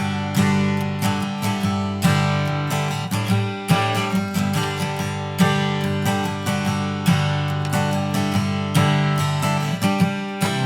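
Acoustic guitar playing a chord progression, the chords picked and strummed with a fresh attack every half second or so and the notes ringing on.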